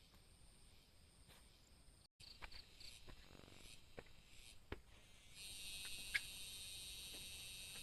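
Insects chirring in a high, steady chorus, faint at first, with a few light clicks; after a brief dropout about two seconds in, the chorus becomes much louder about five seconds in.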